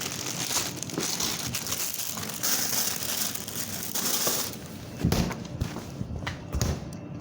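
Food packaging crinkling and rustling as it is handled, with many small crackles, then a few dull thumps about five seconds in.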